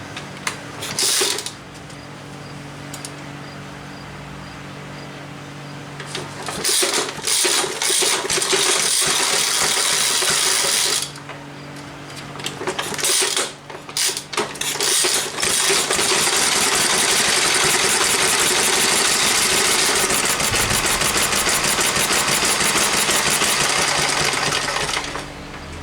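Briggs & Stratton model FI single-cylinder engine being spun over to start it in two long spells, about four seconds and then about ten seconds, with clattering between them. It does not catch.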